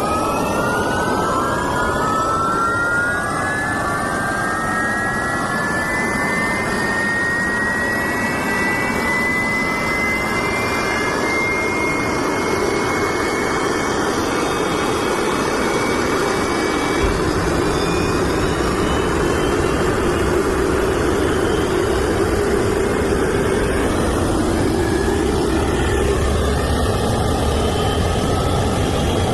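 Aircraft turbine engine spooling up: a whine rises steeply in pitch over the first few seconds, then holds as a steady high whine over a broad rushing sound. About 17 s in, a deeper rumble joins.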